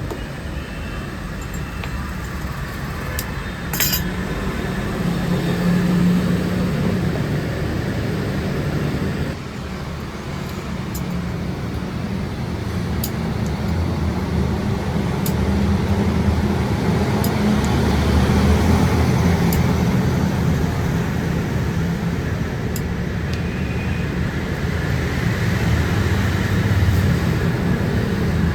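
Workshop machinery running steadily with a low hum, with scattered light metallic clinks. The sound dips briefly about nine seconds in.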